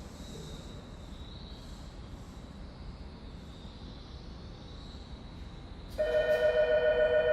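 Quiet railway station platform ambience with a low, steady background hum. About six seconds in, a loud electronic chime starts suddenly: a steady, wavering tone.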